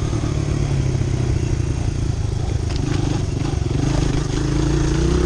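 Honda CRF100 dirt bike's small single-cylinder four-stroke engine running under way, its pitch dipping and then rising near the end as it picks up speed, with a few clatters around the middle.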